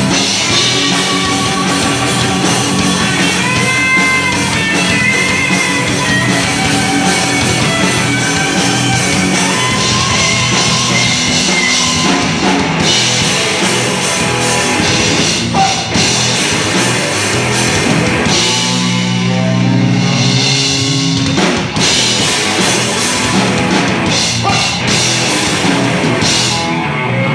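Loud rock music: a full drum kit keeps a steady beat under electric guitars, with a melodic lead line gliding above it.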